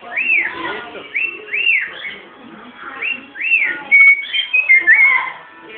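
Cockatiel singing: a series of whistled notes, each arching up and back down, then a louder, quicker string of short, varied whistles in the last couple of seconds.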